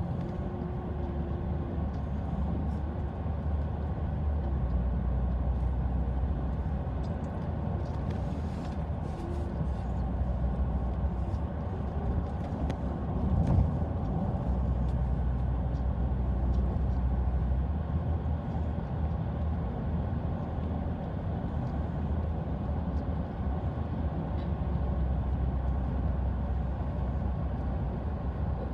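Car being driven: steady engine and road noise, mostly a low rumble, with a brief louder swell about halfway through.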